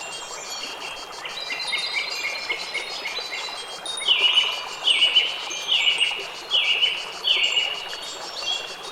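Wind chimes tinkling at many scattered pitches over a soft steady wash of noise. About halfway in, a bird calls five times in a row, each call a short falling note, louder than the chimes.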